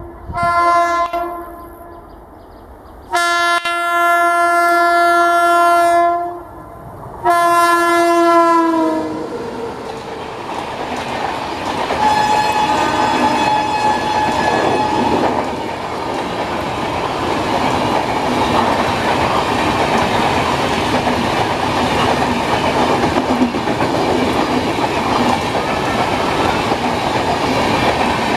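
WAP-7 electric locomotive sounding its horn in three blasts, a short one, a long one and a third whose pitch drops at the end as the locomotive passes at speed. Then its coaches rush past with a steady noise of wheels on the rails.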